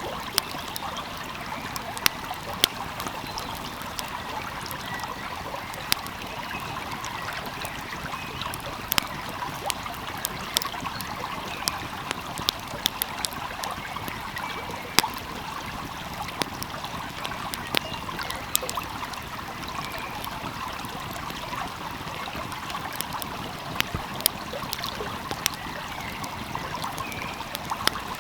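Wood fire crackling with frequent sharp, irregular pops over the steady rush of a flowing stream.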